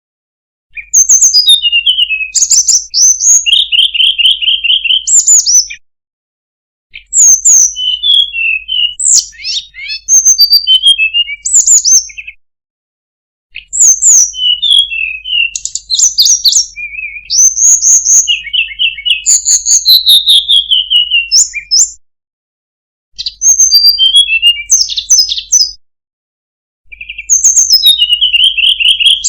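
Tledekan gunung (snowy-browed flycatcher) singing a loud, quick, high-pitched warbling song of varied notes and short trills. The song comes in phrases of two to five seconds, each broken off by a sudden short silence.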